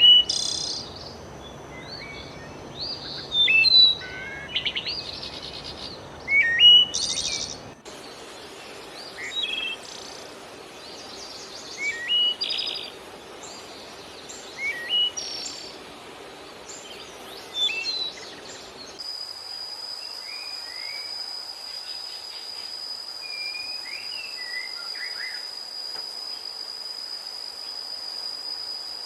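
Birds chirping and calling: short whistled calls that rise and fall, a few of them loud, over a steady hiss. The background changes abruptly twice, and in the last third a steady high-pitched tone runs under fainter calls.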